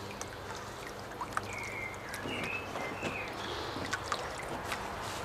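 Water trickling and sloshing over a steady low hum. There are scattered small clicks, and a few short high chirps about two to three seconds in.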